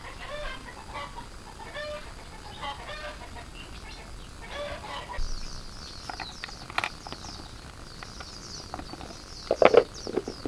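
Chickens clucking, with short repeated calls in the first half. From about halfway a rapid run of high, thin chirps sets in, and a few sharp knocks come near the end.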